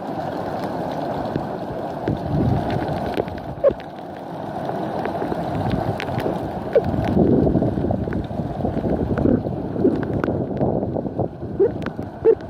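Wind buffeting the microphone: an uneven rushing rumble, with a few short clicks and brief chirps scattered through it.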